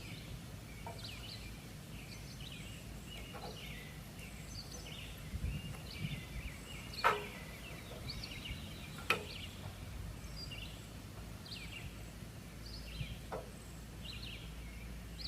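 Birds chirping with many short calls throughout, over a faint low hum. Two sharp knocks stand out, about seven and nine seconds in.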